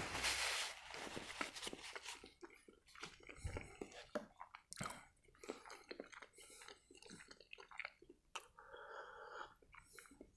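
Close-up mouth sounds of a man chewing the last mouthful of boiled pelmeni: a paper-napkin rustle over the first second, then soft wet chewing with many small mouth clicks.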